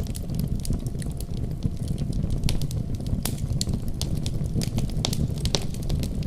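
Wood fire crackling with frequent sharp, irregular pops and snaps, over a steady deep rumble of a winter snowstorm.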